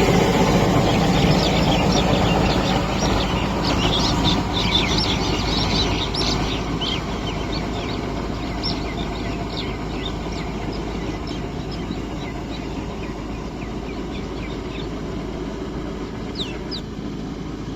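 Kubota MU 5502 tractor's diesel engine running and growing steadily fainter, with many short bird chirps over it.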